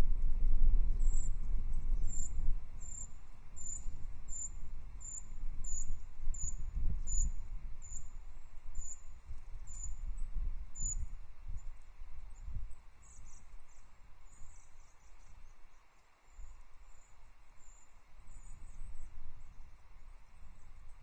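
A small songbird, one of the tits, repeats a thin, very high call about twice a second for some ten seconds, then gives a few quicker twittering calls. A steady low rumble runs underneath.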